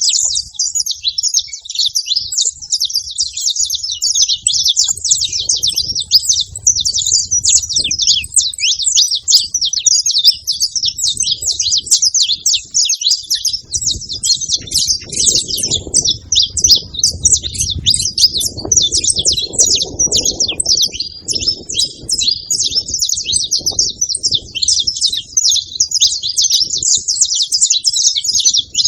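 Several saffron finches (canário-da-terra) singing and chirping together, a dense unbroken stream of rapid high chirps.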